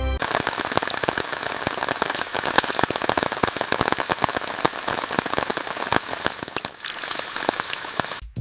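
Heavy rain falling, a dense steady patter of many drops striking a surface.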